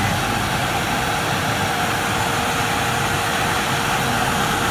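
Flatbed template cutting machine running: a steady mechanical whir and hiss with a faint steady tone held throughout.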